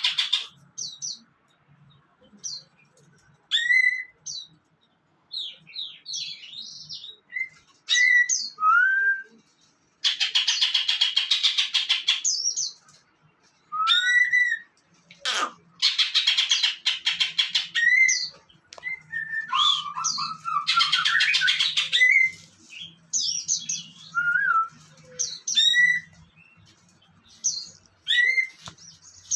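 Songbird singing a varied song: runs of fast, dense chattering trills two to three seconds long, alternating with short, sharp rising whistled notes and brief pauses.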